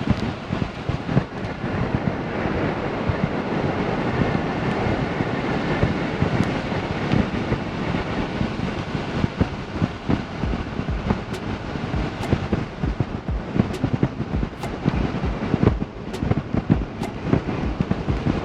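Driving noise of a vehicle towing a travel trailer, heard from inside the cab: a steady road and engine rumble with frequent knocks and rattles, and a few sharp ticks in the second half.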